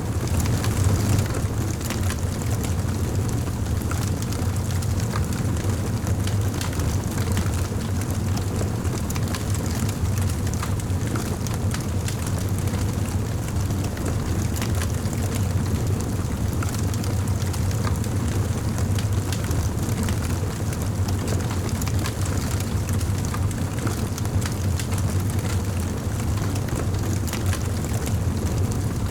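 Wood fire burning in a fireplace: a steady low rumble of flames with many small crackles and pops.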